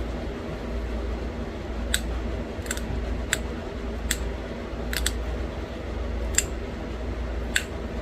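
Pressure flaking a small stone arrowhead: about eight sharp, high clicks at irregular intervals of roughly a second, as small flakes snap off the edge. A steady low hum underneath.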